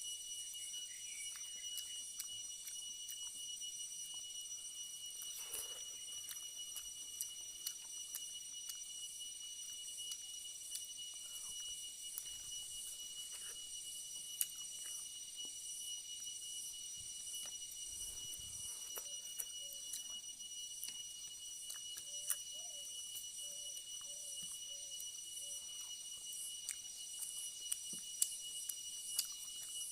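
Quiet eating: scattered small clicks and crunches of chewing and handling food, over a steady high-pitched hum with fine rapid pulsing.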